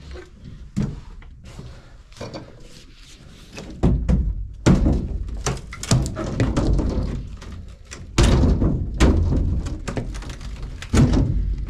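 Repeated thuds and knocks of something being struck to break it apart: a few lighter knocks, then a run of heavy blows from about four seconds in.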